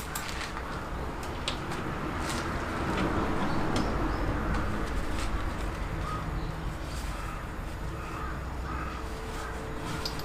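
Crows cawing several times, mostly in the second half, over a steady rushing background with scattered sharp clicks.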